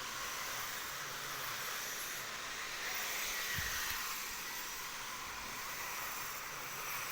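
Toy electric train running with a steady high-pitched screaming hiss from its motor.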